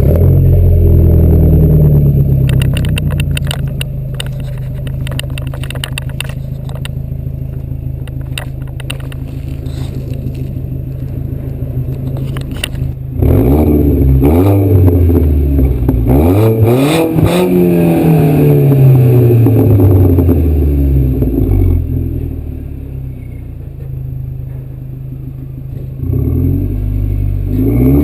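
VW Passat B5's 1.8T turbocharged four-cylinder through a custom exhaust with no resonator. It catches at the start and runs at a fast idle, then settles to a steady idle. About 13 s in it is revved several times, the pitch rising and falling, then drops back to idle and is revved again near the end.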